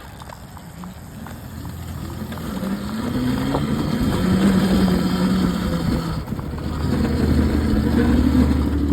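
Electric dirt bike motor whining and growing louder as the bike speeds up, its pitch rising about three seconds in and then holding.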